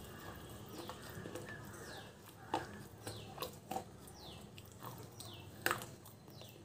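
Close-up mouth sounds of a person biting and chewing something hard and crunchy, with sharp crunches about two and a half seconds in, twice around three and a half seconds, and the loudest near the end. A bird's short falling chirps repeat about once a second in the background.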